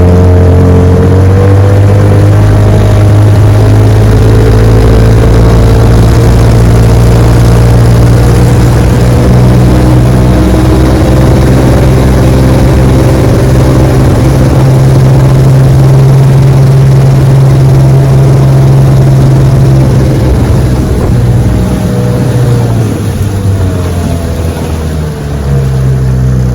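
A 1968 Evinrude 9.5 hp two-cylinder two-stroke outboard motor running steadily at speed under way. About twenty seconds in, the engine speed drops and it gets quieter.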